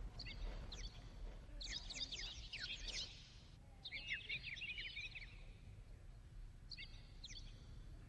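Birds chirping in four short bursts of quick, high notes, over faint outdoor background noise.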